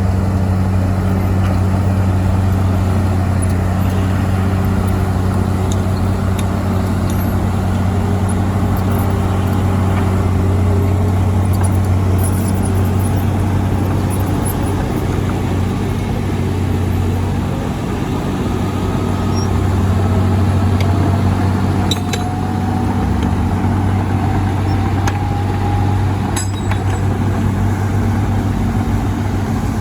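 Heavy diesel engines of earthmoving machinery running steadily: a deep, continuous engine drone, with a faint whine slowly rising in pitch in the second half.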